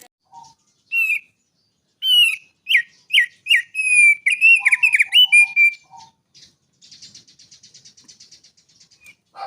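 A songbird singing: a run of clear, sliding whistled notes, followed by a fast, dry trill near the end.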